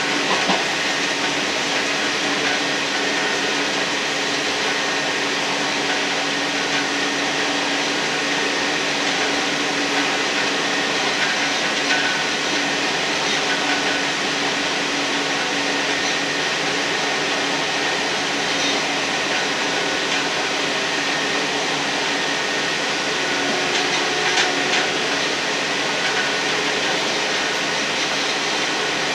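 Steady running noise of a British Class 158-derived diesel multiple unit travelling along the track, heard from inside the railcar as an even rushing with faint hums and a few light clicks.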